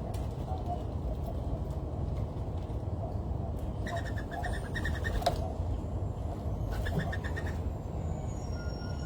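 Two short bursts of rapid, evenly spaced chattering calls, about four and about seven seconds in, over a steady low rumble.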